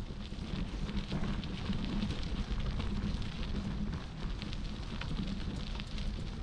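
Bicycle tyres rolling over a crushed-stone rail trail with a steady crackling crunch, over a low rumble of wind on the microphone.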